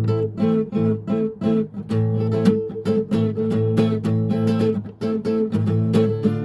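Guitar strummed in a steady rhythm, playing chords in A minor.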